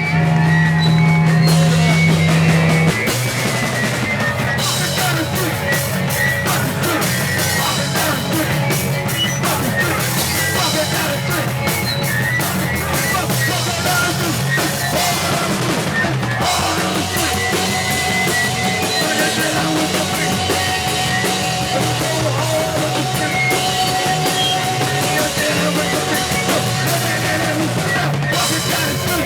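Punk band playing live and loud, with distorted guitar, bass and drums. A single low note is held for about the first three seconds before the drums come in and the full band plays.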